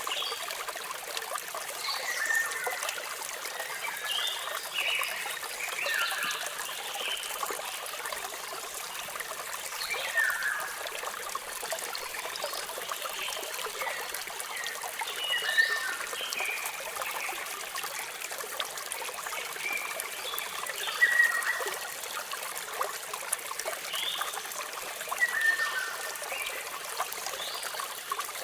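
Waterfall running in a steady splashing rush, with birds chirping in short calls every second or two over it.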